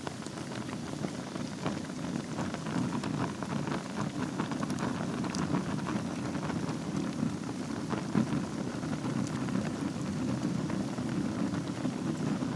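Wood fire burning in a fireplace: a steady low rush of flames with frequent small crackles and snaps, and one louder pop about eight seconds in.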